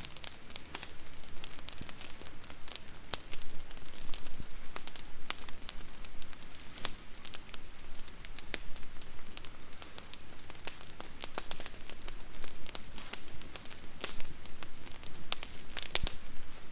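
Wood campfire burning, crackling with many irregular sharp snaps and pops.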